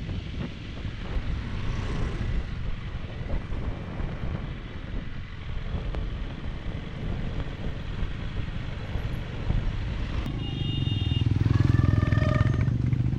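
Motorcycle riding along the road, a steady rumble of engine, wind and tyres. Near the end a vehicle horn sounds as the rumble swells with passing traffic.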